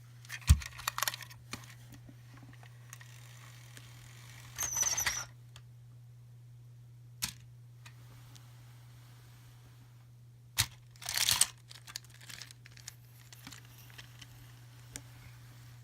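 Hands handling surprise-egg wrappers and small toys: short bursts of crinkling and tearing packaging, with sharp clicks of plastic. A steady low hum runs underneath.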